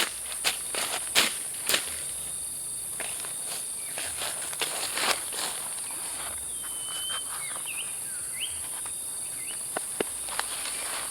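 Steady high-pitched insect chorus, with a run of sharp crunches and snaps on dry forest litter in the first five seconds, and a few short chirping calls midway.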